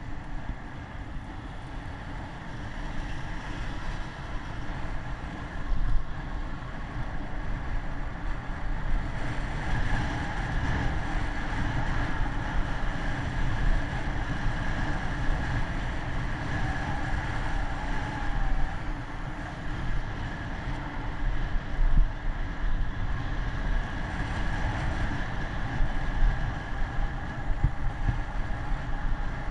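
Wind buffeting the microphone on a moving bicycle: a gusty low rumble over a steady rush of road and traffic noise.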